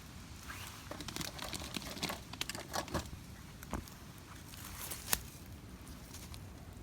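Dry twigs and leaves crinkling, rustling and cracking irregularly, with one sharp snap about five seconds in.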